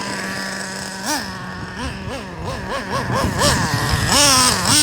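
Traxxas Revo nitro RC monster truck's 3.3 two-stroke glow engine idling steadily, then blipped through a quick run of short revs, with a longer rev near the end.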